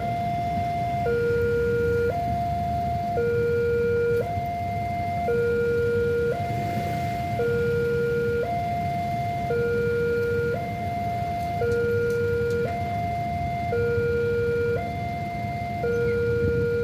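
Railroad level-crossing warning alarm sounding a steady two-tone signal, a higher tone and a lower tone alternating, each held about a second. A steady low rumble runs underneath.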